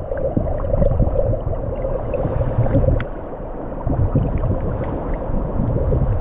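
Water gurgling, with a steady low rumble and scattered small clicks.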